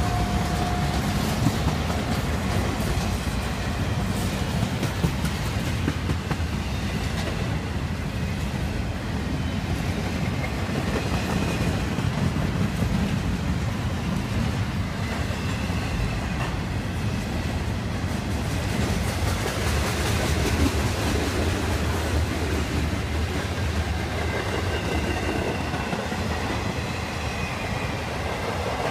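Freight cars of a BNSF manifest train rolling past: a steady rumble with the clatter of wheels on the rails, continuing without a break.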